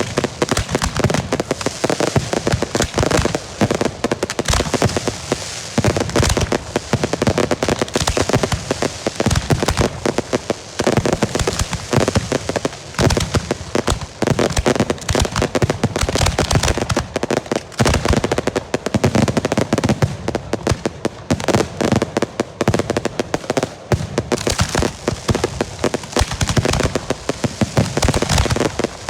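A continuous barrage of firework bangs from girândolas, salvos of Portuguese festival rockets (foguetes) going off in rapid succession. The reports overlap into a dense, unbroken crackle with no pause.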